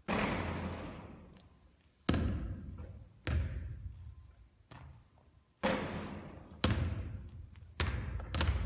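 A basketball bouncing and striking hard surfaces, about seven sharp, irregularly spaced hits, each trailing off in a long echo.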